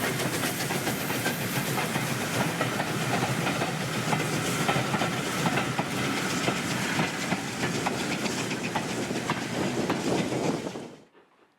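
A train running by, its wheels clicking over the rail joints. The sound cuts off suddenly about a second before the end, leaving near silence.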